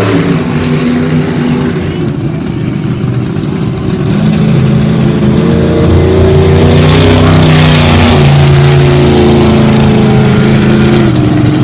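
Monster truck engine running on a warm-up lap. It eases off about two seconds in, then builds and holds loud from about five seconds, its pitch stepping up and down.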